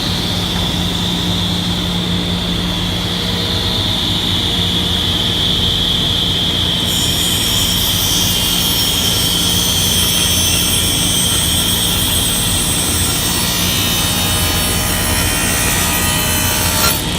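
SawStop table saw running with a steady high blade whine. From about seven seconds in, a harsher, rougher sound joins it as the blade rips a board along the fence, stopping with a small knock near the end.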